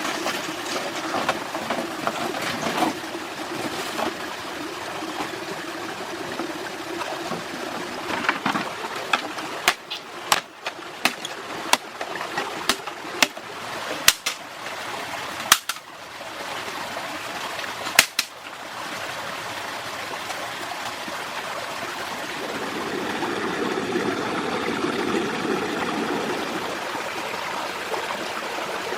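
Water flowing steadily, like a forest stream. In the middle comes a run of about a dozen sharp, separate clicks over some ten seconds, and near the end the flow grows fuller.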